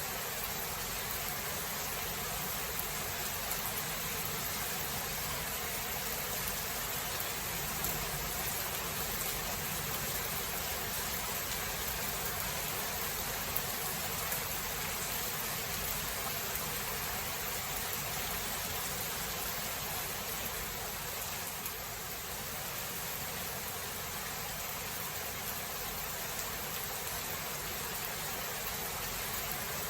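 Steady rain from a thunderstorm, an even hiss with no distinct thunderclap.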